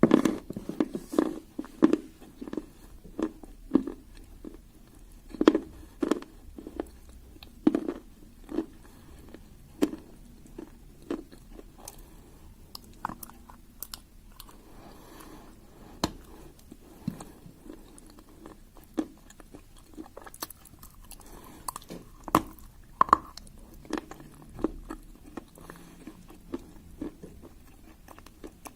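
A person chewing and crunching pieces of clay: irregular crisp crunches, one or two a second, coming more sparsely after the first ten seconds.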